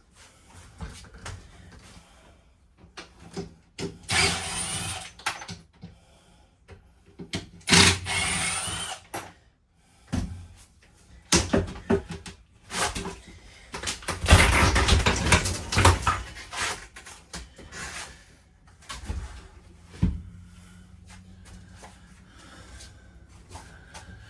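Teardown work inside a camper's interior: irregular knocks, clicks and scrapes, with three longer bursts of rasping, tearing or tool noise about four, eight and fourteen seconds in.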